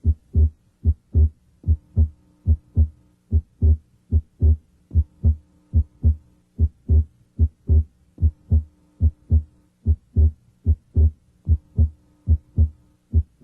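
Heart sounds heard through a stethoscope diaphragm at the left second interspace (pulmonic area): a regular lub-dub of first and second heart sounds, a little over one beat a second. The second heart sound is abnormally widely split, the split coming and going with respiration.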